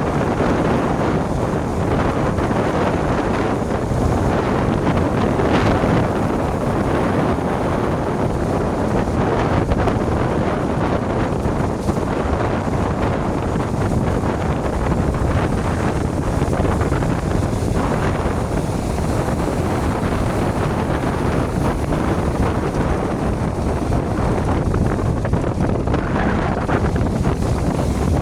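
Strong wind buffeting the microphone over the steady running of motor fishing boats heading out to sea, with waves in the background.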